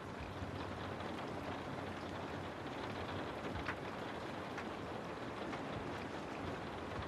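Steady rain falling, an even hiss with scattered drips and patters of individual drops.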